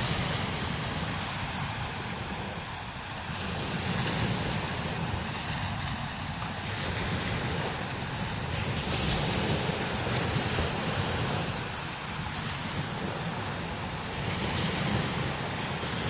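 Strong desert wind blowing in gusts, with a deep rumble where it buffets the microphone and a steady hiss above it, swelling and easing every few seconds.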